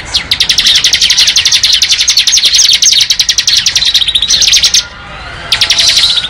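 Bar-winged prinia (ciblek) singing its rapid, drill-like 'ngebren' trill: a fast, even run of high notes lasting about four and a half seconds. After a short pause it starts again near the end.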